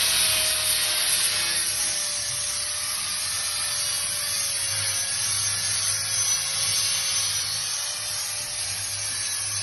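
Handheld power tool running steadily under load on metalwork: a continuous hiss with a steady motor whine.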